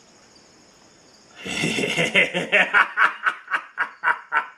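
A man laughing: a loud burst of laughter starting about a second and a half in, then a run of chuckles at about four a second that tails off. Crickets chirp faintly before the laugh.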